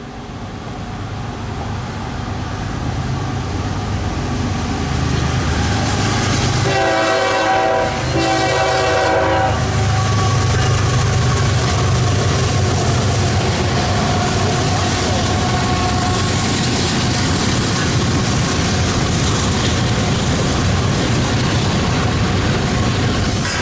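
CSX intermodal freight train's diesel locomotives approaching and passing with a steady low rumble that grows louder over the first few seconds. About seven seconds in, the lead locomotive sounds its horn in two blasts of several notes at once. The rumble then carries on as the container cars roll by.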